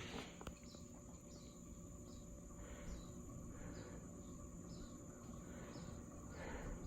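Faint insect chirping: short high chirps repeating about one or two times a second over a steady high drone.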